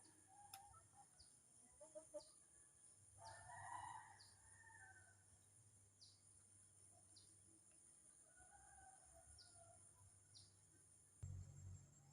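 Rooster crowing faintly, one crow about three seconds in and a fainter call later, over a steady high drone and short repeated high chirps.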